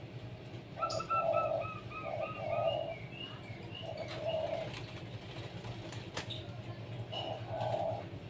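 Zebra dove cooing in short groups of soft, rounded notes. A small bird twitters a quick run of about eight chirps during the first few seconds.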